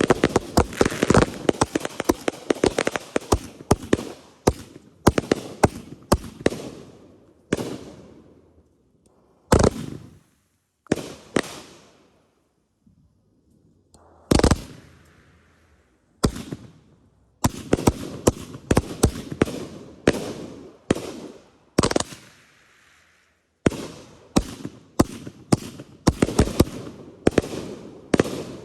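Consumer fireworks going off in rapid volleys of sharp bangs, each with an echoing tail. There is a short lull around the middle, then further volleys.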